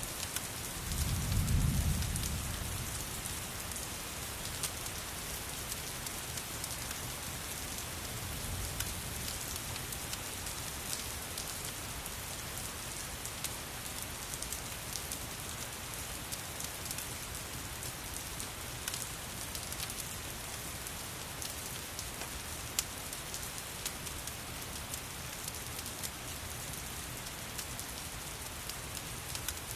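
Steady rain pattering, mixed with the fine crackle of a fireplace fire. A brief low rumble swells about a second in, with a fainter one a few seconds later.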